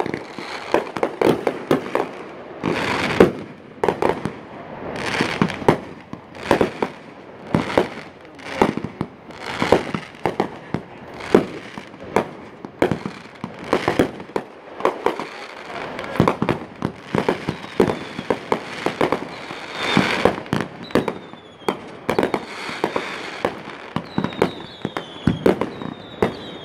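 Aerial fireworks display going off in quick succession: many sharp bangs, with swells of crackle between them and several falling whistles in the last few seconds.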